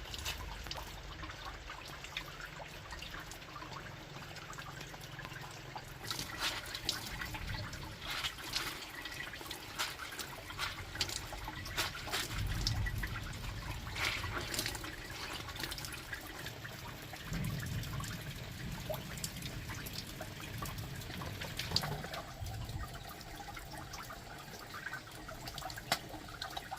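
Water trickling and splashing steadily, with scattered light knocks and clatters.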